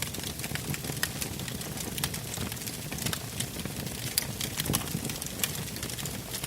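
Wood campfire burning steadily, logs crackling with frequent sharp pops over a low, even rush of flame.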